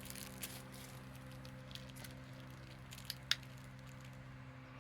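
A few faint clicks and light handling noises from an item being turned over in the hands, the sharpest a quick pair about three seconds in, over a steady low hum.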